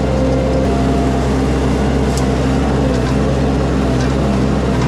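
Mini skid steer's engine running steadily under throttle, with a couple of faint knocks about two and three seconds in.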